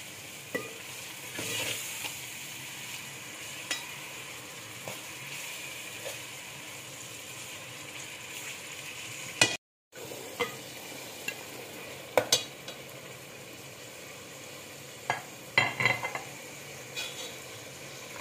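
Keema (minced meat) frying with onions in a metal pot, a steady sizzle, while a ladle stirs and scrapes through it with scattered sharp knocks against the pot. The sound cuts out completely for a moment about halfway through.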